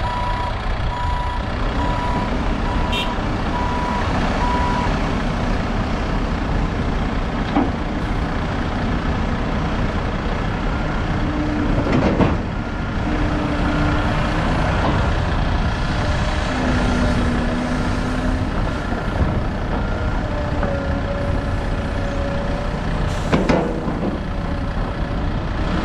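Heavy diesel machinery running steadily at a construction site, with a reversing alarm beeping evenly for the first few seconds. Two loud crashes, about twelve seconds in and near the end, fit excavator bucket loads dropping into a dump truck's bed.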